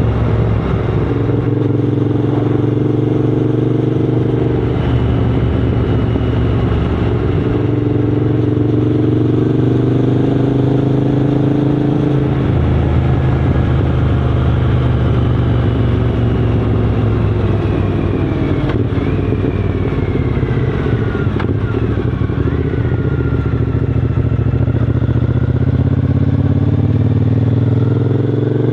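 Triumph Scrambler 900's parallel-twin engine running steadily under way, its note shifting up and down a few times with throttle. The sound cuts off suddenly at the end.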